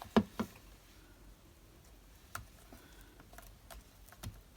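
Light clicks and taps of paper pieces and small craft tools being handled on a desk, with two sharper knocks near the start.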